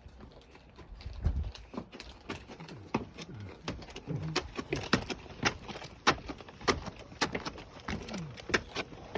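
Footsteps walking: a run of irregular sharp knocks and scuffs, several a second.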